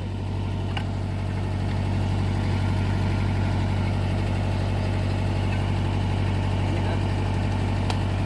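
Diesel engine of a Mitsubishi MS030 excavator running steadily, its level building a little over the first couple of seconds and then holding, with one sharp click near the end.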